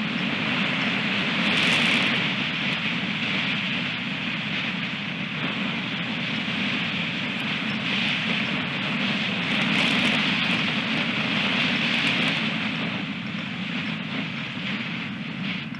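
Strong wind blowing across the nest camera's microphone, a steady rushing noise that swells in gusts, strongest about two seconds in and again around ten to twelve seconds, then eases slightly near the end.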